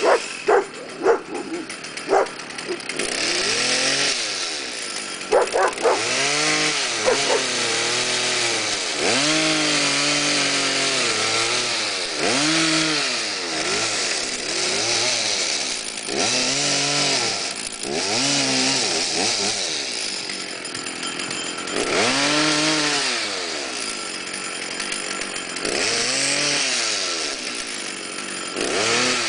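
Chainsaw engine revving up and dropping back over and over, each rise and fall lasting a second or two, as it cuts wood. A few short sharp sounds come in the first few seconds.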